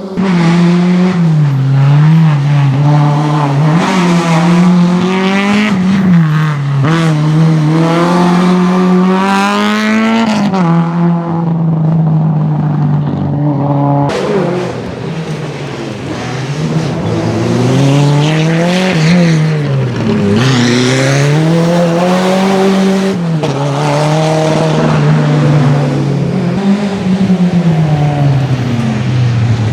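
Historic rally car engine at hard throttle on a special stage, revving up and dropping back again and again through gear changes. The sound changes abruptly about 14 seconds in, then carries on with the same rising and falling revs.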